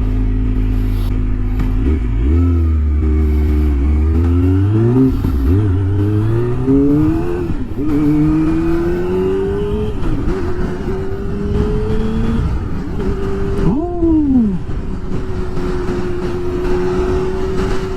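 Kawasaki Ninja ZX-25R's inline-four engine through a Yoshimura R-77 full exhaust, pulling away and accelerating through the gears: the pitch climbs and drops back at each of several quick upshifts, then rises more slowly and settles into a steady cruise, with a brief sharp drop and recovery in revs about 14 seconds in.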